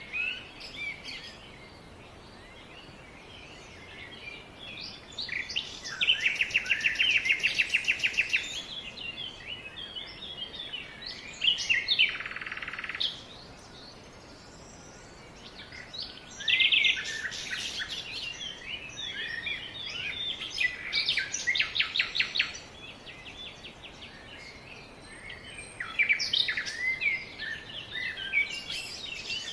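Several songbirds singing and calling, with chirps, whistled notes and rapid trills in bursts and short lulls between.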